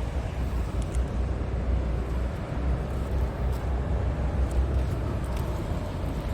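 2011 Scania R-series tractor unit's diesel engine running with a steady low rumble.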